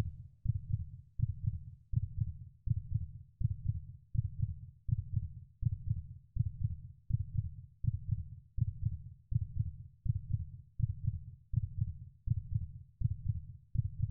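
Heartbeat sound effect: steady low double thumps, about one and a half beats a second.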